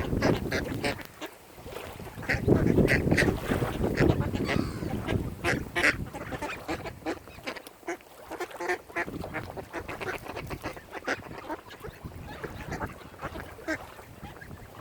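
Waterfowl calling: many short honks and quacks overlapping throughout, over a low background noise that is loudest about two to four seconds in.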